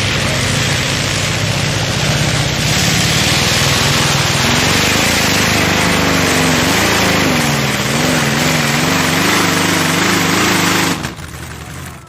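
Modified pulling tractor's engine running at full throttle under load. Its pitch wavers up and down through the second half, and the sound cuts off suddenly about a second before the end.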